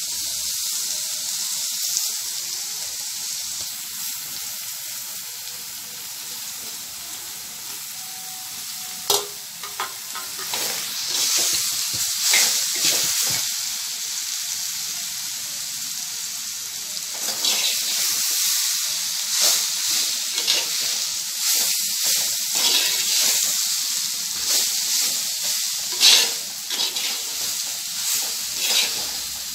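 Chopped raw jackfruit stir-frying in hot oil in a clay pot: a steady sizzle, with a metal spoon scraping and stirring it against the pot. The scraping strokes come thicker from about halfway through.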